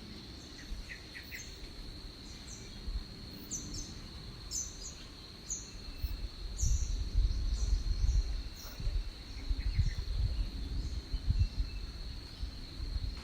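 Tropical forest dawn chorus: a steady high-pitched insect drone with many short, high bird chirps over it. In the second half, irregular low rumbling gusts come and go and are the loudest sound.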